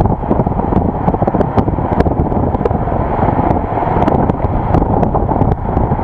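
Steady road and wind noise from a vehicle driving across a bridge, heavy and low, with many small clicks and rattles scattered throughout.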